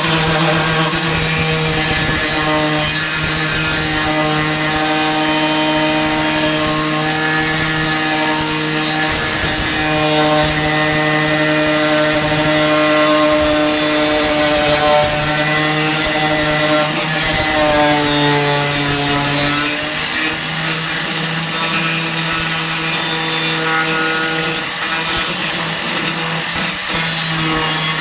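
A 4.5-inch angle grinder running steadily with its wheel against sheet steel. The motor pitch sags briefly about two-thirds of the way through as it is pressed harder and then recovers.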